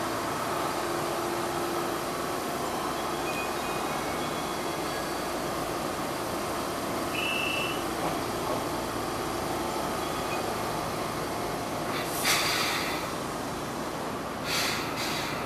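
Enshu Railway electric trains at a platform: one standing with its equipment running while a second train pulls in on the next track. Short bursts of hissing come about twelve seconds in and again near the end as the arriving train stops.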